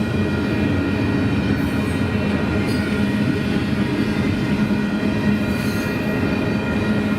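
Union Pacific intermodal double-stack freight train rolling past at trackside: a steady rumble of steel wheels on rail with a constant hum.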